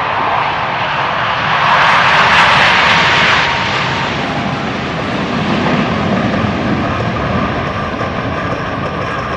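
Four F/A-18 Hornet jets taking off together in afterburner, a loud jet roar. It swells to its loudest about two seconds in, as they pass, then eases to a lower rumble.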